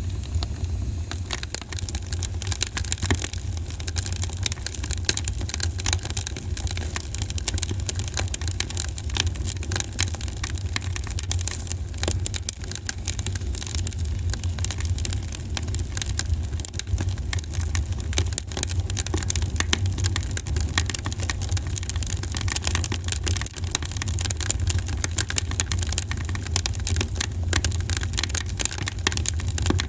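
Campfire crackling, with a steady stream of sharp snaps and pops over a constant low rumble.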